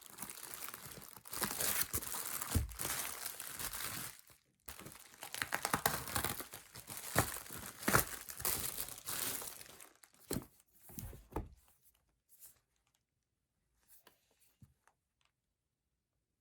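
Packaging crinkling and tearing as it is handled. After about ten seconds it thins to a few light rustles, then goes quiet.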